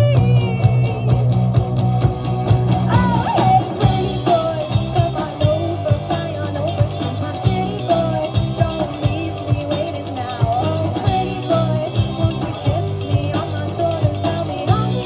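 Live rock band music: a singer's wavering melody over a band with a steady, regular beat.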